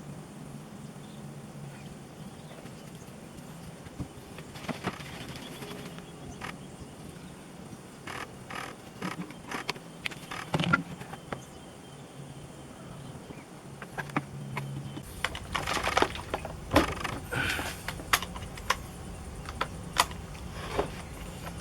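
Scattered clicks, knocks and light clatter of tools and chainsaw parts being handled, growing busier in the second half, over a steady low hum.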